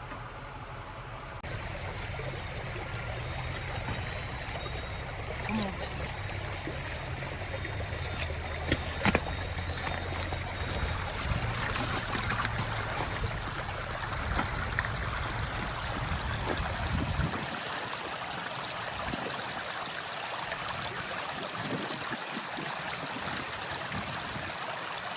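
Steady rushing of running water, with a low engine rumble underneath that cuts off about 17 seconds in, and a couple of sharp knocks around the middle.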